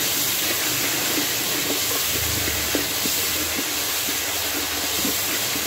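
Onion, tomato and spice masala sizzling steadily in hot oil in an aluminium pot, with scattered small crackles, as it is roasted (bhuna) for biryani.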